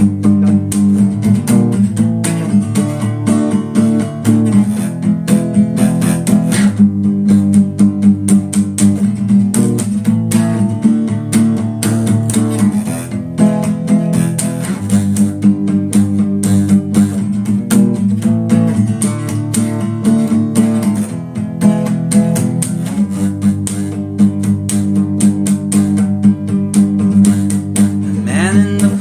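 Music: a guitar strummed in a steady rhythm.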